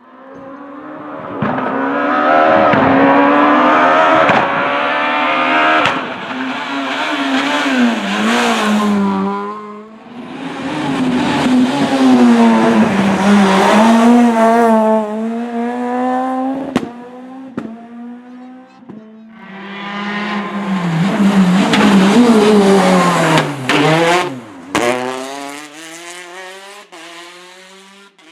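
Rally cars passing at speed one after another, three loud passes with the engines revving up and dropping through gear changes, sharp cracks among them and some tyre squeal; the last one fades away near the end.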